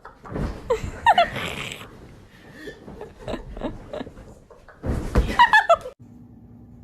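A person laughing in two loud bursts, the second about five seconds in.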